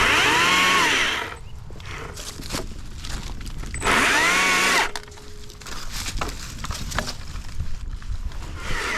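Gasoline chainsaw revved up twice, each burst about a second long, rising in pitch and then holding: once at the start and again about four seconds in, with quieter running and clatter between.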